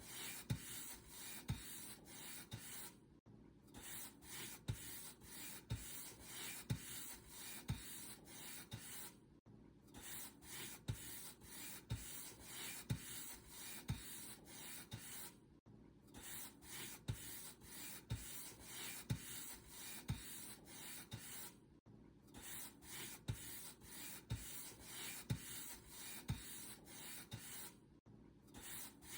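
Paint brush bristles stroking back and forth over a surface, brisk rubbing strokes about two a second, each with a soft knock. There is a short break about every six seconds.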